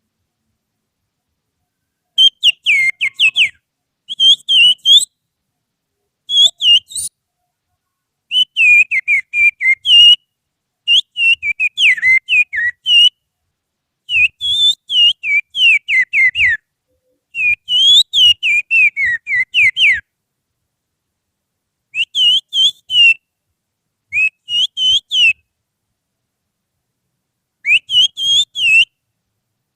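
Finger whistling imitating the song of an Oriental magpie-robin (kacer), used as a lure to set caged birds singing. It comes in about ten short phrases of rapid, sweeping high notes, with brief silences between them.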